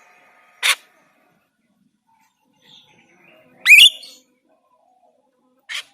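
Jalak rio-rio starling calling: a short sharp call, then a loud rising call in the middle, then another short call near the end.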